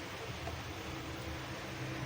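Steady low hum over a faint even hiss: background room noise, with no distinct events.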